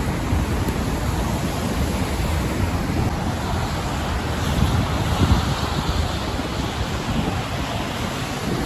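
Wind buffeting the microphone in a snowstorm: a steady rush of noise with uneven low thumps from the gusts.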